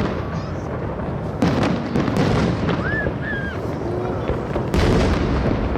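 Aerial fireworks shells bursting in quick succession, a steady run of booms and crackles with a louder burst near the end.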